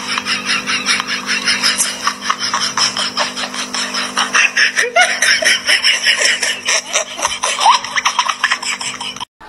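A person laughing hard and without a break, a fast run of about five laugh pulses a second, cutting off suddenly near the end.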